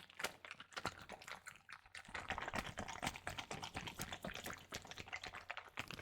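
A water-filled plastic bag squeezed and handled close to the microphone: a dense run of small crackles and squelches, busier from about two seconds in.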